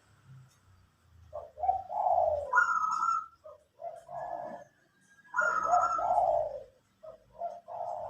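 A dove cooing in repeated phrases, the longest about two and six seconds in, with a shorter coo near the end.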